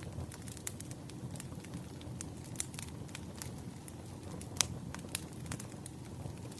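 Wood fire burning, crackling with many sharp pops over a low steady rumble; one pop about four and a half seconds in stands out louder than the rest.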